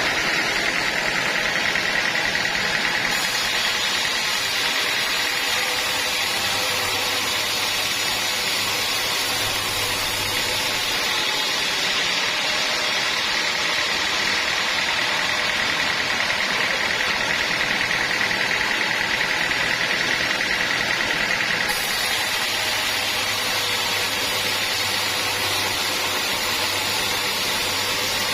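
Sawmill machinery running steadily, a constant mechanical drone with a high whine that swells and fades over several seconds.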